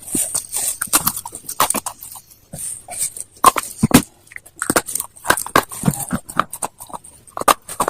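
Brittle slate stone being bitten and chewed close to the microphone: irregular sharp crunches and crackles, several a second.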